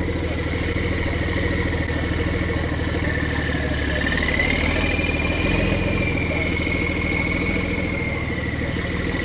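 Car engine idling steadily, with a high thin whine over the low hum that rises a little midway and settles back.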